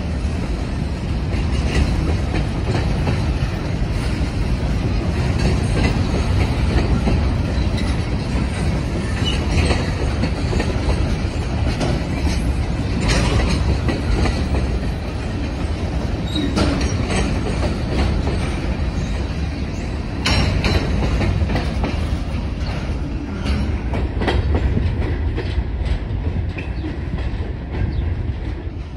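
Freight cars (covered hoppers and a tank car) rolling past over a road crossing: a steady low rumble of steel wheels on rail with irregular clacks and knocks as the wheels cross the rail joints. It eases slightly near the end as the last car goes by.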